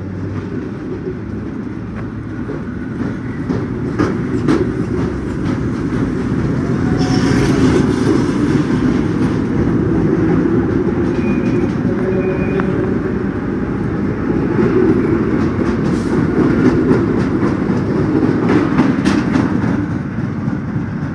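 New York City subway train running on the tracks, a steady rumble with its wheels clicking over the rails, growing louder over the first few seconds. Two brief high squeals come around the middle.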